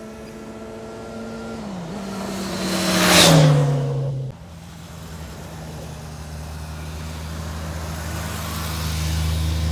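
A motor vehicle passing close by: its engine note and tyre noise swell to a peak about three seconds in, the pitch falling as it goes past, then cut back sharply, leaving a steady low hum under a slowly building rush.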